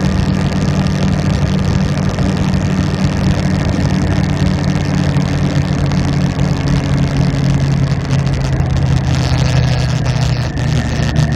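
Motorcycle engine running steadily under way, its note dropping a little near the end.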